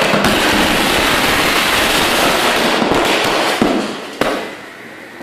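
Thousands of firecrackers going off inside a microwave oven in a dense, continuous crackle of pops. The crackle thins out about four seconds in, with a couple of last louder bangs.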